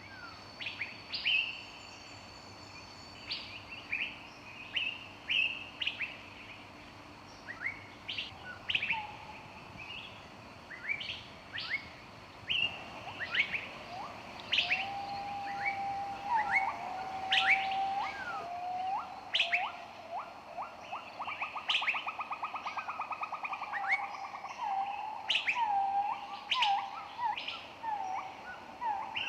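Several wild birds chirping and singing, with many short sharp high chirps throughout. From about halfway, lower whistled notes join in, along with a rapid trill that lasts a few seconds.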